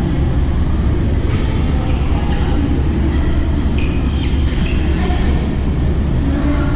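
Badminton play: a few sharp racket hits on the shuttlecock at irregular moments over a loud, steady low rumble.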